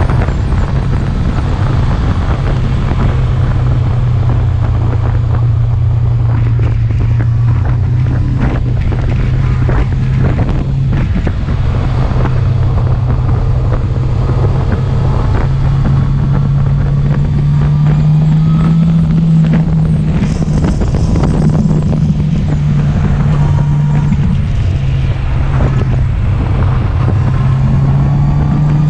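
Motorcycle engine running steadily at cruising speed, with wind noise on the microphone. The engine note rises a little about two-thirds of the way through, then settles back.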